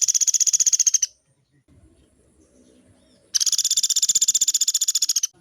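Pelatuk beras woodpecker giving long, rapid rattling trills of many even, high-pitched notes. One trill ends about a second in, and a second starts near the middle and runs about two seconds.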